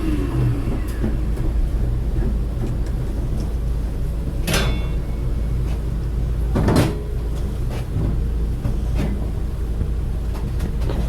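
A few sharp knocks over a steady low rumble, the loudest about four and a half and nearly seven seconds in.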